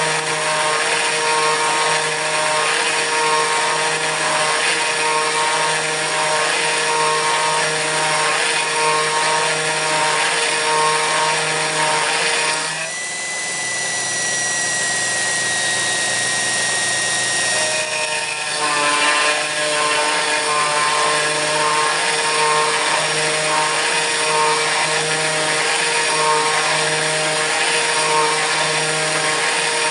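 Kress FME-1050 router, used as a CNC spindle, milling aluminium: a steady high whine over a denser cutting sound that pulses slowly. For about five seconds in the middle the cutting sound drops out and mostly the spindle's whine alone is heard, falling slightly, before cutting resumes.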